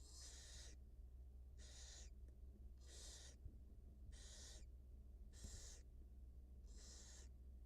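Barn owl hissing calls in the nest box: about six short hisses, roughly a second apart, over a low steady hum.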